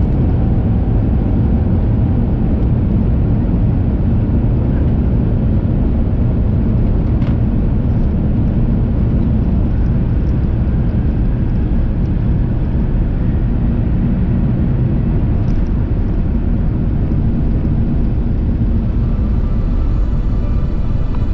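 Cabin noise of an Airbus A350-900 during takeoff and initial climb: its Rolls-Royce Trent XWB engines at takeoff power, with a loud, steady low rumble. Music fades in near the end.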